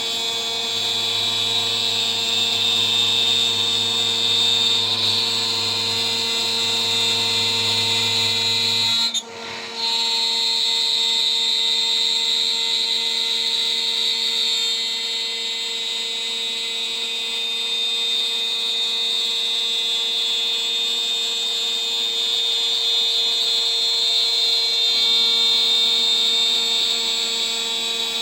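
DIY CNC router spindle at about 14000 RPM driving a 3 mm three-flute end mill through a milling pass: a steady high whine with a bright cutting tone. The sound drops out briefly about nine seconds in and then resumes.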